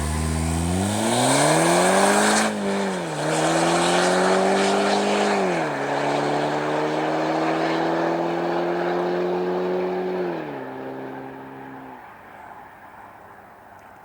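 Skoda Yeti with a K04 turbo upgrade and Magnaflow exhaust accelerating hard through the gears, its exhaust note climbing in pitch and dropping at two quick upshifts. The note lifts off about ten seconds in and fades away.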